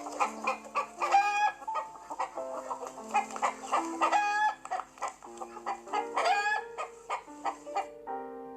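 Chickens clucking in quick short calls, with three longer drawn-out calls about one, four and six seconds in.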